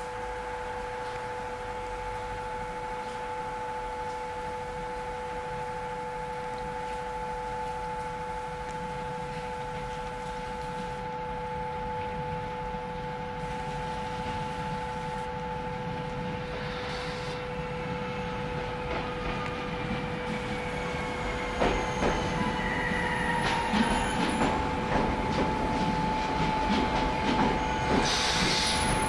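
Passenger train pulling slowly into the station: a steady whine, with motor tones falling in pitch as it brakes in the second half. Near the end it gets louder, with wheel clicks over the track and brief squeals.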